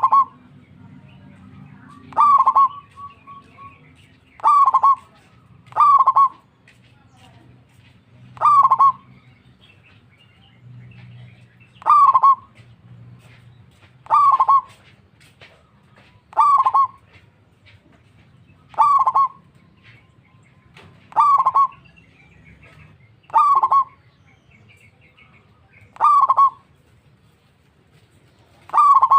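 Zebra dove (perkutut) giving a short cooing call over and over, about every two to three seconds. It is a lure call meant to make other perkutut answer.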